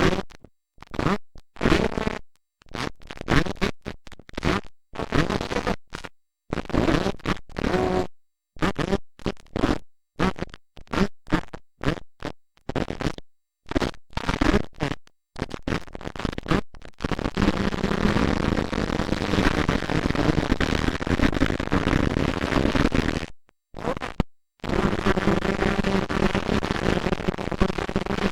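Rough, scratchy noise across all pitches, cutting out abruptly to dead silence many times in quick succession, like a damaged or glitching recording. After about 17 s it runs steadier with a faint low hum, broken by one more short gap.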